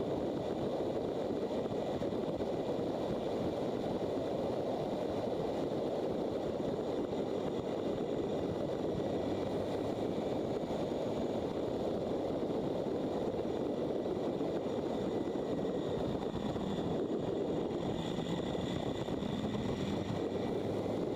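Motorcycle running steadily on the road, its engine and the rush of wind and tyres blending into an even, unchanging noise.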